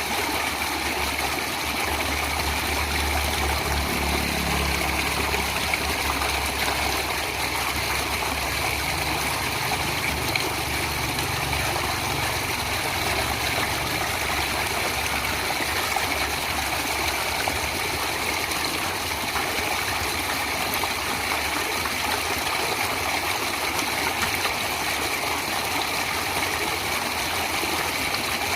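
Natural stream water flowing and trickling steadily. A low hum sits underneath for the first dozen seconds or so, then fades away.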